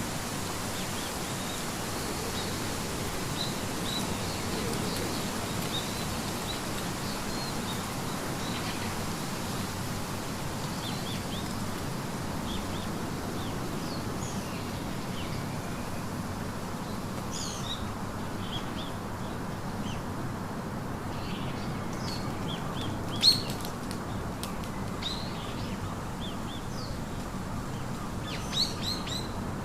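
Birds chirping and calling over a steady background hiss: small, faint high chirps at first, then sharper, louder calls in the second half, the loudest about two-thirds of the way through.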